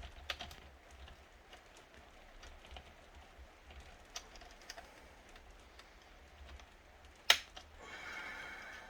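Plastic snap clips on an HP Pavilion ze4200 laptop's screen casing being pried apart: scattered small clicks, a sharp snap a little after seven seconds in, then about a second of plastic scraping.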